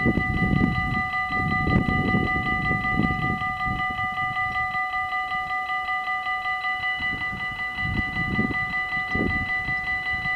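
Dutch automatic level-crossing warning bells ringing rapidly and steadily, about four strokes a second. A low rumble comes and goes underneath, strongest in the first half and again near the end.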